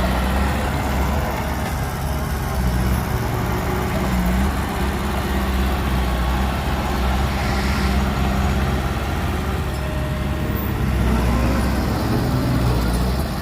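Heavy diesel earthmoving machinery running steadily, with a deep engine rumble.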